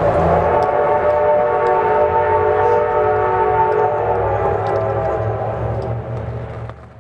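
Steam locomotive whistle of Reading & Northern T1 #2102 blowing one long blast of several steady tones sounding together over a low rumble, fading out near the end.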